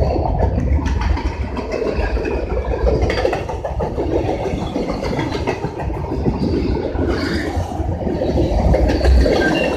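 A train passing close by: a steady, loud rumble of engine and rolling wheels, with no horn.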